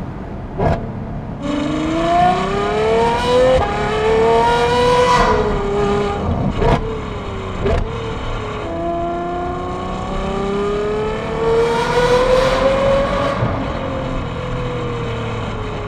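Ferrari 812 Superfast's V12 through a Novitec exhaust with catless downpipes, X-pipe and the valves open, heard from inside the cabin: the engine revs up hard twice, rising in pitch each time, with sharp cracks before and between the two pulls.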